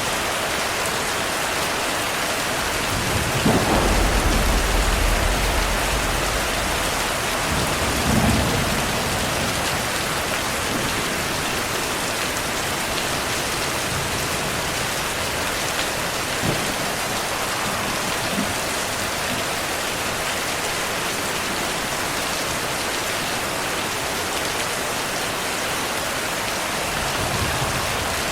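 Heavy rain falling steadily, with a low roll of thunder about three seconds in that lasts a few seconds and a shorter rumble soon after.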